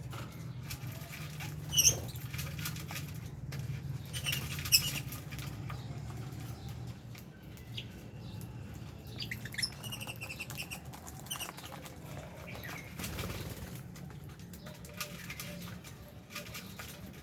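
Small parrots in an aviary, lovebirds and budgies: wings flapping and birds shuffling about, with short high chirps now and then, loudest about two seconds in and near five seconds. A steady low hum runs underneath.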